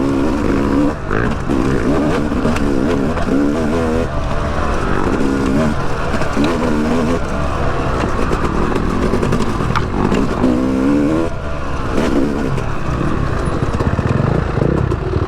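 Yamaha YZ250X two-stroke dirt bike engine revving up and down again and again while ridden on a rough, icy trail, heard through a mic inside the rider's helmet. A few sharp knocks come through, about a second in, around four seconds and around twelve seconds.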